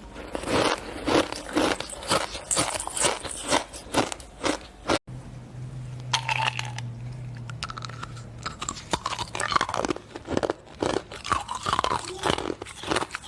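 Shaved ice being bitten and chewed close to the microphone: dense, irregular crunching. About five seconds in the sound cuts out abruptly, then the crunching resumes more sparsely over a low steady hum that lasts a few seconds.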